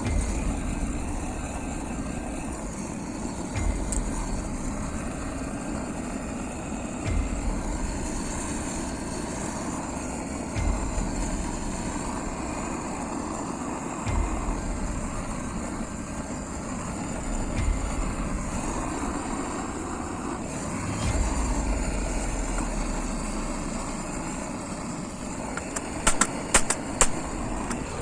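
Hammering on the warped steel grate of a fire pit to straighten it: a steady rushing noise with a low thud every three to four seconds, then a quick run of sharp metallic strikes near the end.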